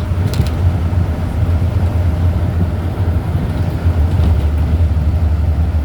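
High wind buffeting the microphone, a steady low rumble with a faint hiss above it and a couple of brief clicks about a third of a second in.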